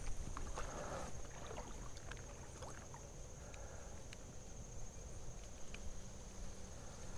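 Creek ambience: a low, steady rumble of moving water and wind on the microphone, with scattered light clicks and a brief rushing sound in the first second. A thin, steady high-pitched whine runs underneath.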